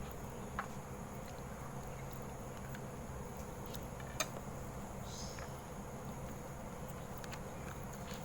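Steady low room hum with a few faint clicks and taps, the loudest about four seconds in: small sounds of cutlery and eating during a meal.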